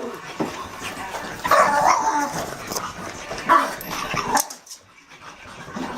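Dog barking and whining, with two main calls, one about a second and a half in and another around three and a half seconds in.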